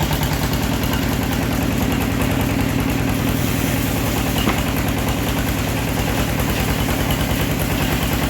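Engine of a homemade bandsaw mill running steadily with a fast, even pulsing beat.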